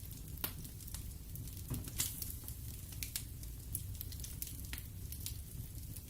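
Wood fire burning in a fireplace: a steady low rumble of flames with irregular sharp crackles and pops of burning logs, the loudest pop about two seconds in.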